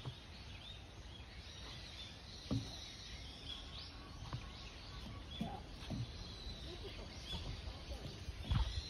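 Small birds chirping now and then over a steady low rumble of outdoor noise, with a couple of soft knocks, one about two and a half seconds in and a louder one near the end.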